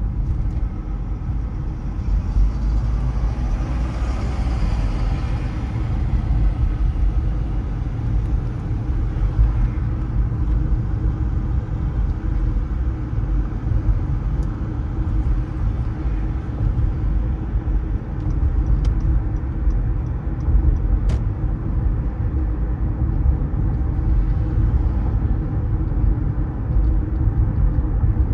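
Road noise from a car driving through city streets: a steady low rumble of tyres and engine, with a swell of noise a few seconds in.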